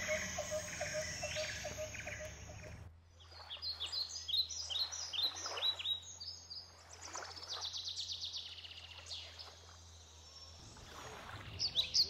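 Outdoor ambience of small songbirds chirping in short repeated high notes, with a quick trill in the middle. Before the birdsong, for about the first three seconds, a steady high hiss with a regular ticking, which cuts off abruptly.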